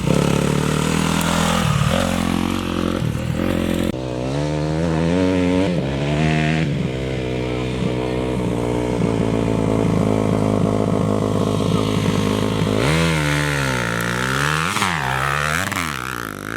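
Off-road race motorcycle engine revving hard, its pitch rising and falling, with several quick swings up and down near the end.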